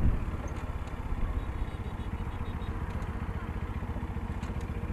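Motorcycle engine running low and steady at slow speed, heard from on the bike, with an even low putter.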